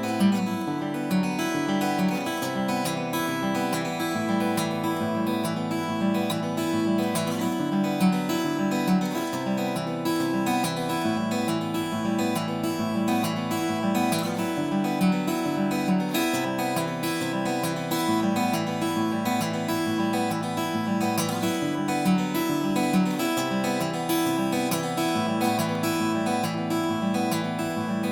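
Acoustic guitar played continuously, a steady run of picked notes and chords.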